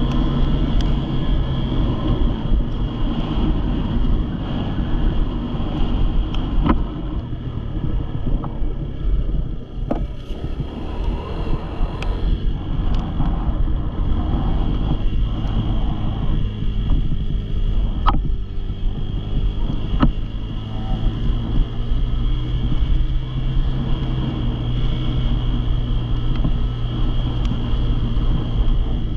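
An engine running at a steady, even speed, with wind on the microphone and a few sharp clicks.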